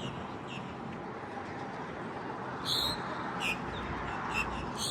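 Birds giving short, sharp, high-pitched calls, about half a dozen, the loudest near the middle, over a steady background hiss.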